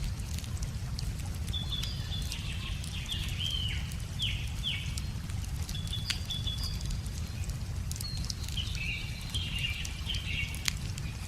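Wood fire crackling with scattered sharp pops over a steady low rumble. A songbird calls in two runs of short, high, down-slurred notes, in the first half and again near the end.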